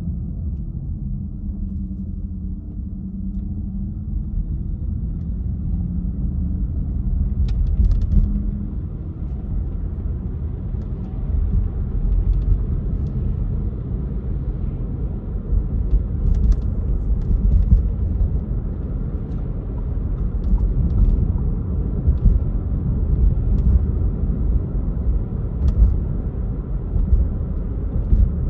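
Car driving on city streets: a steady low rumble of engine and tyres, with the engine note rising and falling over the first several seconds.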